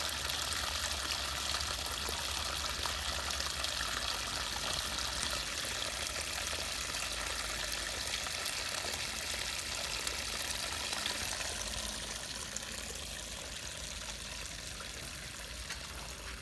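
Floodwater flowing steadily through a cleared drain, pouring and splashing with an even rush, easing slightly over the last few seconds.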